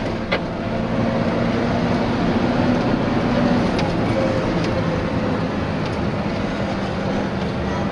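Tour bus driving, heard from inside the cabin: a steady engine hum over tyre and road rumble.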